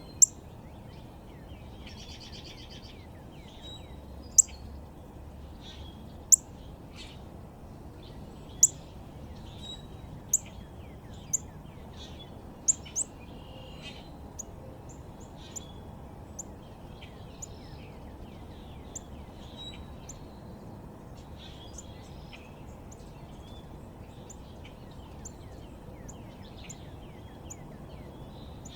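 Backyard songbirds chirping and calling, led by sharp, very high, short chip notes that come every second or two and grow fainter after the first half, over a steady low outdoor background noise.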